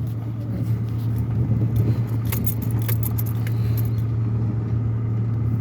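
Pickup truck being driven, heard from inside the cab: a steady low engine and road drone, with a few brief light jingles and clicks about two to three and a half seconds in.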